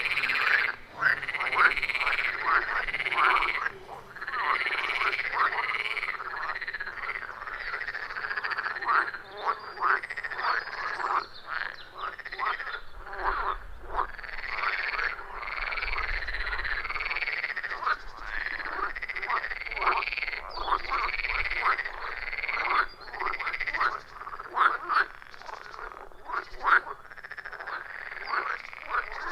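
A chorus of many frogs at a pond, their croaking calls overlapping and repeating rapidly without a break.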